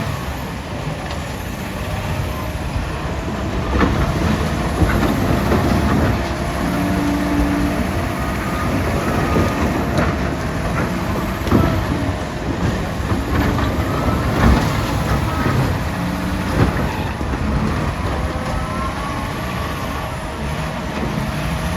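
Caterpillar 966D wheel loader's diesel engine running hard under load, its pitch rising and falling as it works, with loud knocks and clanks scattered through.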